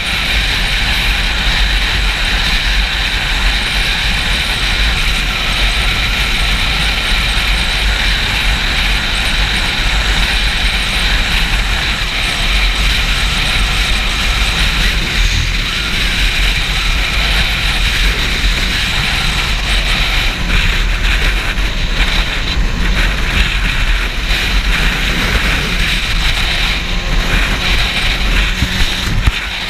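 Loud, steady wind buffeting on a GoPro microphone while a Yamaha YZF-R6 is ridden, with the bike's inline-four engine running underneath.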